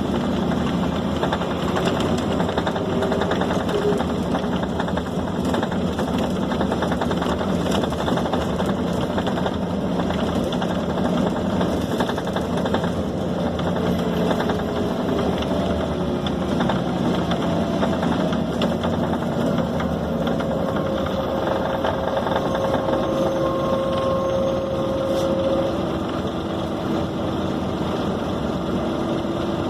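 Scania K270 city bus heard from inside the cabin while under way. The diesel engine runs continuously, its note slowly falling and then rising again with speed, over steady road and body noise.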